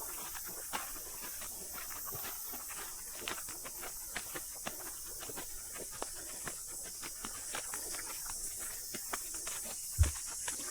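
Steady high-pitched chorus of cicadas in native bush, with irregular footsteps on the walking track and a single low thump near the end.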